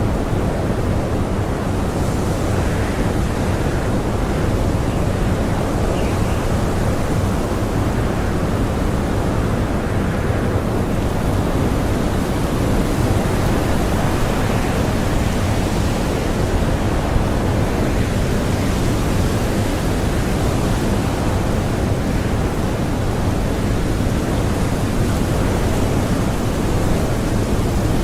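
Blizzard wind blowing strongly and without pause, a dense rushing noise that swells now and then in gusts.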